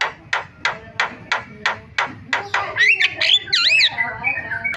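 Javan myna calling: a rapid, even series of about nine harsh clicking notes, roughly three a second, then looping whistles and warbling notes that glide up and down from about three seconds in.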